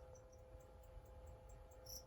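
Near silence: steady room hum, with a few faint short high-pitched chirps, one a little clearer near the end.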